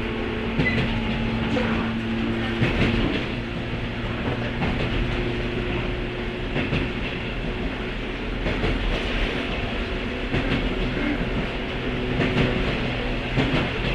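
A 103-series electric commuter train heard from aboard motor car MoHa 102 while running. A steady rumble carries a faint hum from its MT55 traction motors, and wheels click over rail joints now and then.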